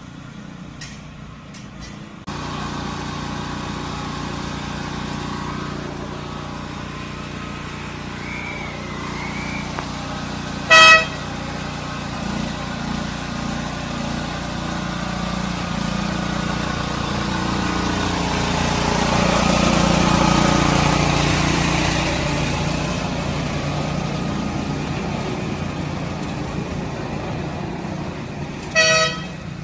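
A small petrol-electric locomotive running steadily as the train rolls, the noise swelling and fading in the middle, with two short train horn blasts, about a third of the way in and near the end.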